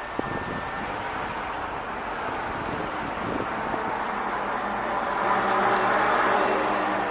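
Road traffic noise, with a motor vehicle's engine hum coming in about four seconds in and passing loudest around five to six seconds in.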